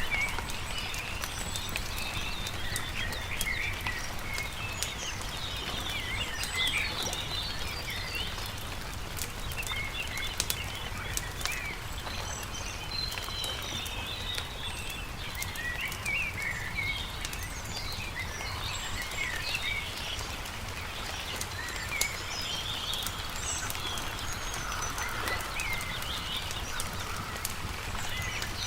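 Many songbirds chirping and singing over a crackling campfire, whose sharp little pops and ticks are scattered throughout, with a low steady rumble underneath.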